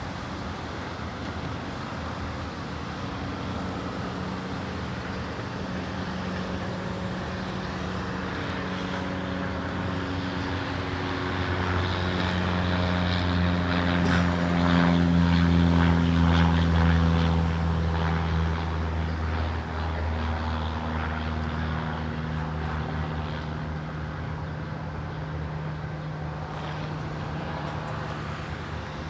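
Aeroplane flying overhead: its engine drone builds to its loudest about halfway through, the pitch drops as it passes, and it then slowly fades away.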